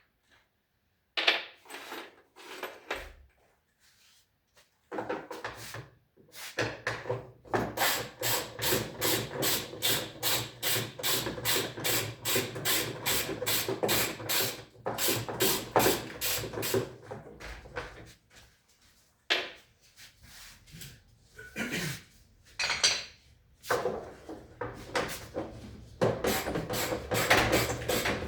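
Hand-tool work: a long run of quick, even scraping or rubbing strokes, about three a second, with scattered knocks and clatter before and after.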